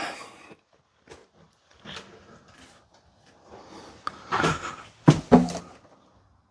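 A few scattered knocks and handling noises in a small room, the loudest cluster about four to five and a half seconds in.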